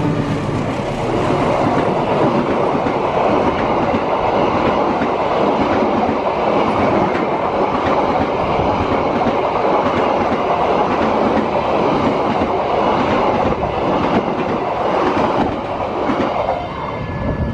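A passenger train passing close by at a level crossing: a loud, steady rumble with the clatter of its wheels over the rails, easing slightly near the end.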